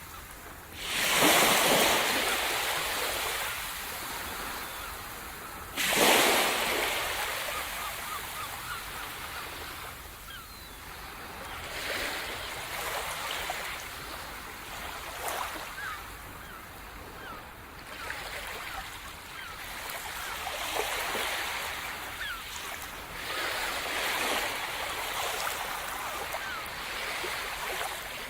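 Sea surf: two larger waves break about a second in and around six seconds, followed by smaller waves rolling in and washing up the shore every few seconds.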